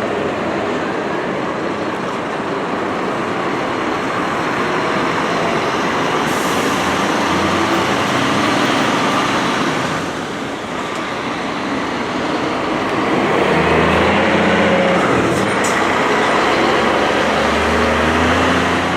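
Scania coach's diesel engine running amid road traffic noise, its low hum swelling about two-thirds of the way in and again near the end.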